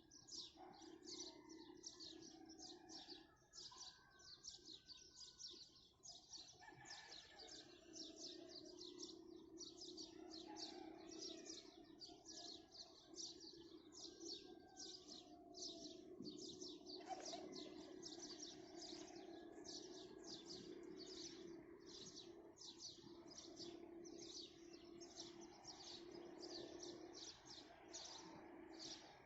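Many small birds chirping rapidly and continuously, several chirps a second, with a low steady hum underneath.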